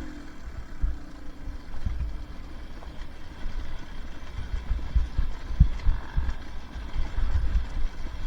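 Two-stroke dirt bike engine at low throttle, its note settling low and fading in the first second or so. Irregular low wind rumble and knocks on the microphone dominate the rest.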